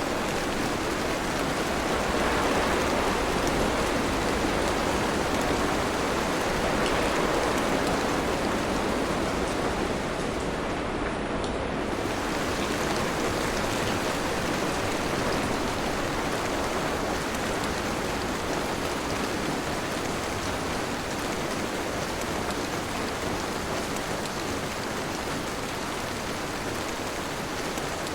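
Steady heavy rain, an even, continuous hiss of falling water with no distinct drops or thunder claps standing out.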